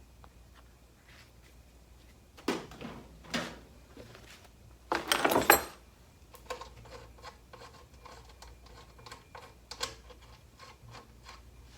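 Small metal parts and hand tools handled on a workbench: two knocks, a louder rattling clatter about five seconds in, then a run of light ticks and taps.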